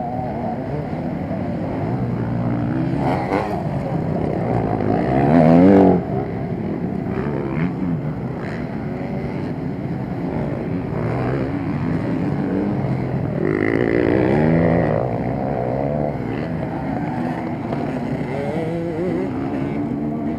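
Motocross motorcycle engines revving on the track. One bike's engine rises in pitch and is loudest about five seconds in, then drops off sharply; another swells up around fourteen seconds.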